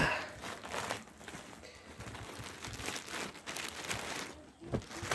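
Plastic packaging crinkling and tearing as a package is opened by hand, starting with one sharp rip, then rustling with many small crackles for a few seconds.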